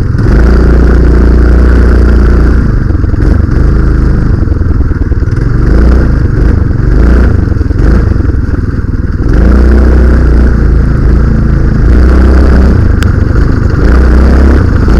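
Minibike's cheap Honda-clone single-cylinder four-stroke engine, driving through a go-kart CVT torque converter, running loud under load as the bike is ridden. The engine pitch rises and falls, climbing again a little past halfway, over a heavy low rumble.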